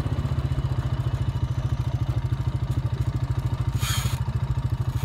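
ATV engine running at a steady, even pulse while the quad is ridden, heard from the rider's seat, with a brief hiss about four seconds in.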